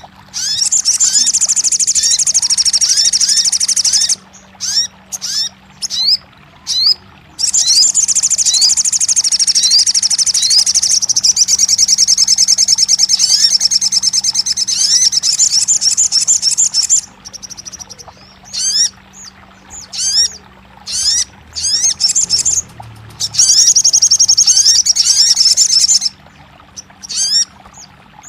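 Crimson sunbird (kolibri sogon) song: long, very rapid high-pitched trills lasting several seconds each, separated by short, sharp rising chirps.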